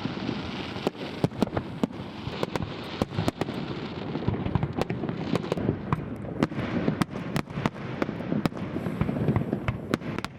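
Fireworks going off: a rapid, irregular string of sharp bangs and pops over continuous crackling.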